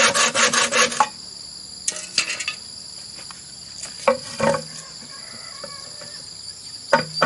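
Hand saw cutting bamboo in quick strokes, about six a second, stopping about a second in. After that a steady high insect drone remains, with a few light knocks and clatters of bamboo.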